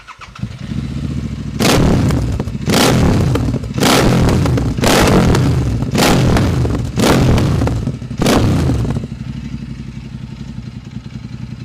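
Royal Enfield Interceptor 865 big-bore parallel-twin on a Silver Stallion twin exhaust starting up and settling into idle. It is then blipped seven times, about a second apart, each rev short and sharp, and drops back to a steady, even idle near the end.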